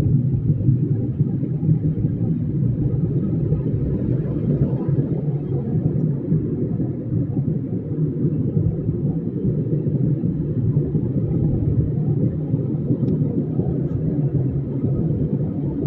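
Steady low rumble of a moving vehicle, even throughout with no distinct knocks or horns.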